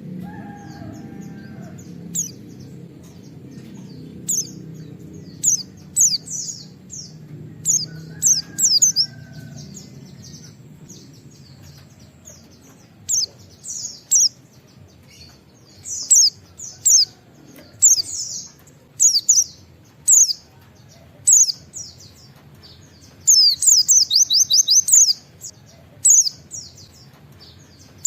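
White-eye (pleci) singing: quick, high chirping notes in short bursts, ending in a rapid 'wit wit' run of about five notes a second. A low hum runs under the first third and fades out.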